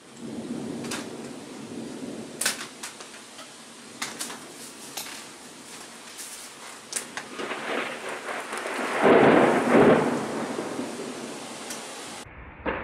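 Thunderstorm: steady rain with scattered crackles, and a roll of thunder that swells to its loudest about nine to ten seconds in.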